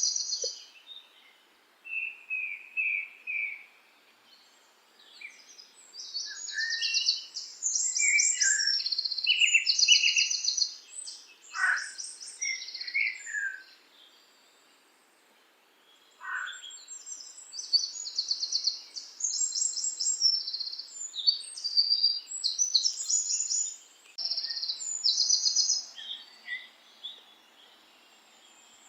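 Songbirds singing in bursts of high, rapid trills and short whistled phrases, a few of them falling in pitch, with quiet pauses of a second or two between songs.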